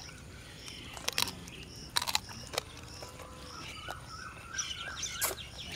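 Birds calling in rural open air: a short high note repeating about twice a second, with warbling chirps joining in the second half. A few sharp clicks cut in about a second and two seconds in and again near the end.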